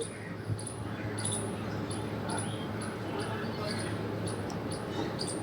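Flat paintbrush stroking chalk paint onto an MDF fridge-magnet base: faint, soft brushing with small ticks about twice a second, over a low steady hum.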